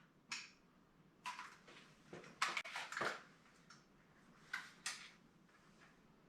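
A few light, sharp clicks and taps of computer hardware being handled, scattered irregularly, with a small cluster about two and a half to three seconds in.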